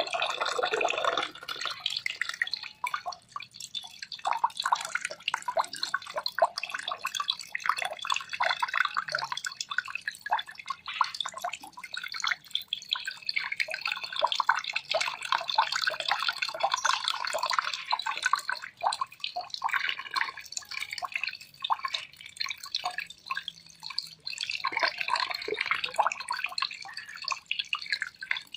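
Water trickling and dripping in a dense, irregular patter of small splashes, going on without a break.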